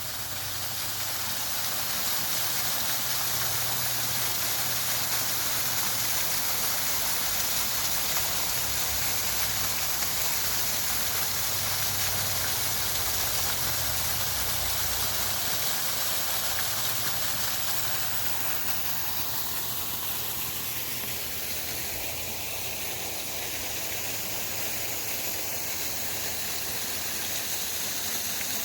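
Steady rushing hiss of riding a bicycle, wind over the microphone and tyres on the trail, with a low wavering rumble underneath.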